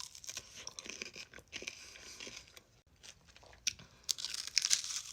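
Close-up chewing and crunching of a frozen ice-cream 'fried chicken' piece with a crunchy coating: irregular crisp crunches, loudest about four to five seconds in.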